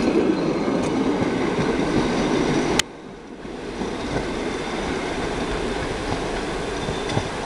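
Passenger train carriages rolling past close by, their wheels running over the rails. About three seconds in there is a sharp click and the level drops suddenly; the rest is a quieter, steady rumble of the train drawing away.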